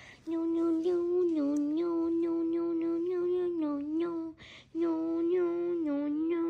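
A voice humming one held, slightly wavering note over and over. It breaks off briefly twice, just after the start and about four and a half seconds in, for what sounds like a breath.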